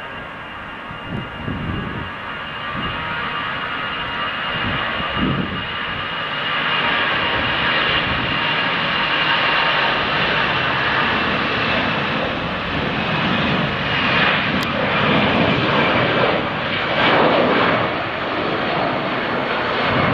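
Turbofan engines of an Airbus jet airliner at takeoff power: a steady jet noise with a high whine, growing louder about six seconds in and staying loud.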